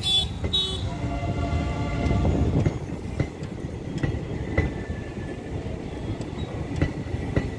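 Passenger train coaches rolling past at speed: a steady rumble, with the wheels clacking over rail joints about twice a second through the second half. A horn toots briefly at the very start.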